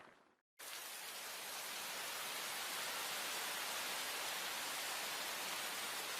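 Rain sound effect: the steady hiss of heavy rain falling, starting abruptly about half a second in after a moment of silence.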